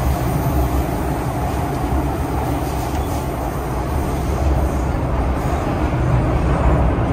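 MTR Tseung Kwan O line M-Train in motion: a steady low rumble of the train running.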